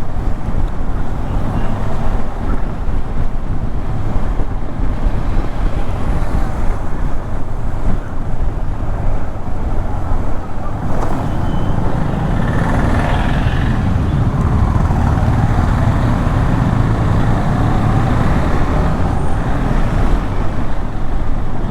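Motorcycle on the move: steady engine and wind noise on a bike-mounted camera, loudest in the low end, with a brief swell around twelve to fourteen seconds in.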